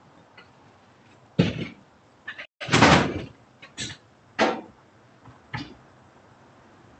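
A series of loud bangs and crashes, about six in quick succession. The loudest and longest comes about three seconds in.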